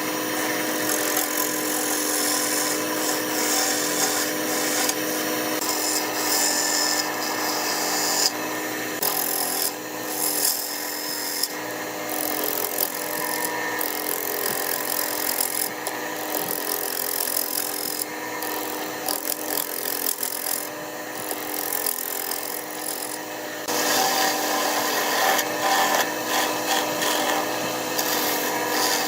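Wood lathe running with a steady motor hum while a turning tool cuts the spinning wood, the scraping hiss of the cut coming and going and growing stronger over the last few seconds.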